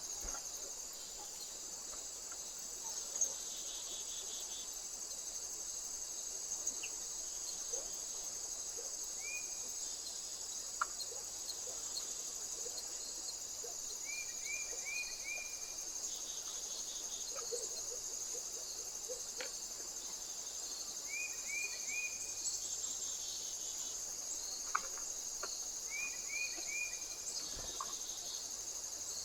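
A steady, high-pitched chorus of crickets chirring continuously. A bird calls in short runs of three or four quick rising notes, four times.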